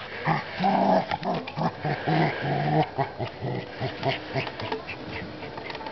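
Dog growling in many short, rapid bursts while biting and gnawing a wooden 4x4 post, with sharp clicks of its teeth on the wood.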